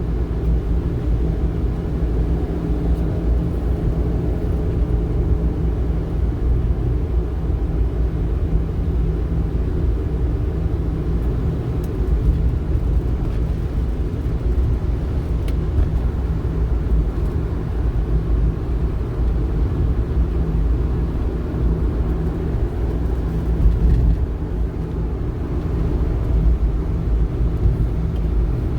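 Strong wind buffeting the microphone in a steady low rumble, the gusts of a departing typhoon.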